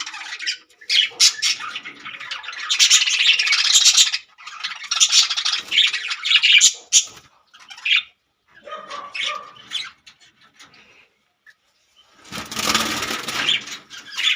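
Budgies squawking and chattering in rapid, scratchy calls, dying down about two-thirds of the way in. Near the end comes a short noisy rustle.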